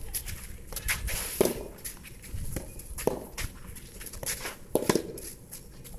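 Soft tennis rally: the rubber ball smacked by rackets roughly every one and a half seconds, with lighter clicks and shuffling between hits. Strong wind rumbles on the microphone throughout.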